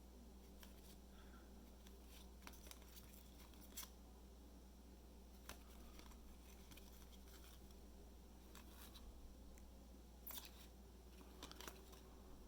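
Trading cards being handled quietly: faint, scattered light clicks and slides as the cards are flipped through by hand, over a steady low hum.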